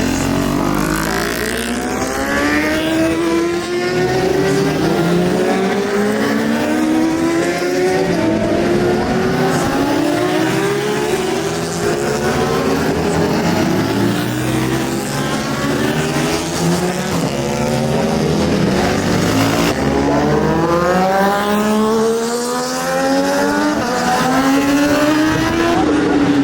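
Racing superbike engines at full throttle, the pitch climbing steeply and dropping back with each gear change, over and over.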